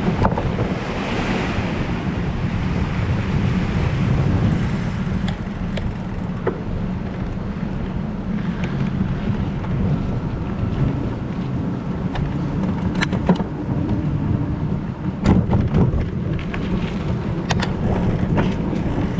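Wind rumbling on the microphone of a moving bicycle, steady throughout. A few sharp clicks or knocks come in the second half.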